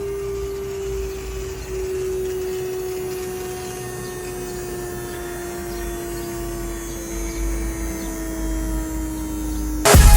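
Small battery-powered DC hobby motor running with a steady whine whose pitch slowly sinks. Loud electronic music cuts in right at the end.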